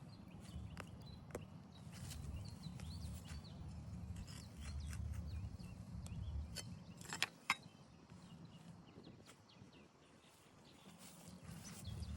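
Outdoor ambience: a steady low rumble, faint bird chirps, and several sharp clicks, the loudest two in quick succession about seven seconds in.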